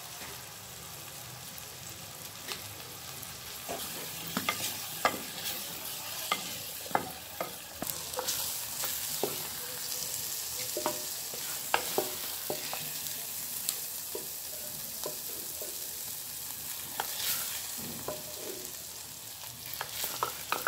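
Tomato-onion masala with fresh coriander sizzling in a clay pan while a wooden spoon stirs and scrapes it, with many short sharp knocks of the spoon against the pan. Near the end the tadka is scraped out of the pan into an earthen pot of whole green moong dal.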